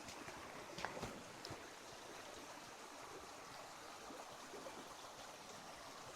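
A small forest creek running over stones: a faint, steady babbling of water, with a couple of light clicks about a second in.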